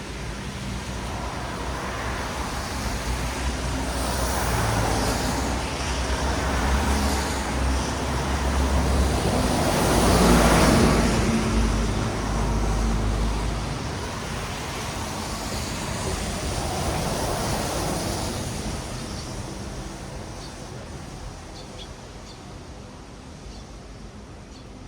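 Road traffic on a wet city street: a string of vehicles passing, each one a hiss of tyres on wet asphalt that swells and fades. The loudest pass comes about ten seconds in, a low engine rumble runs under the first half, and the traffic thins and quietens toward the end.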